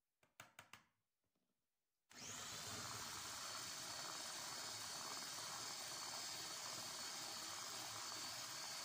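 A few light clicks, then about two seconds in an electric household appliance's motor starts and runs steadily with a high whine.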